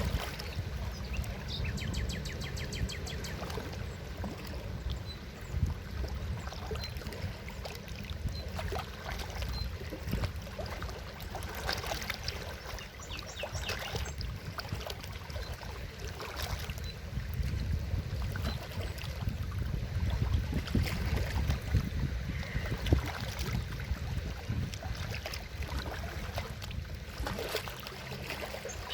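Forest river water flowing and splashing, with a steady low rumble and scattered small splashes.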